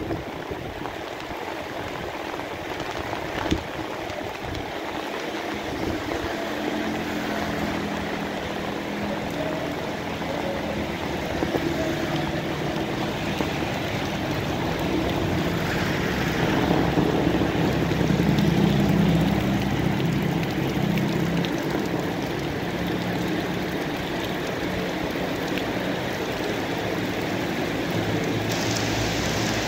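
Steady rain falling, with the low hum of an engine coming in a few seconds in, growing loudest about two-thirds of the way through, then easing off.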